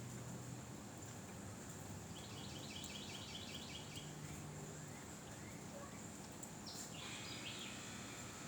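Quiet outdoor ambience: a steady hiss under a thin, high, steady tone. A bird sings a quick run of about ten repeated notes a couple of seconds in, and gives another short call near the end.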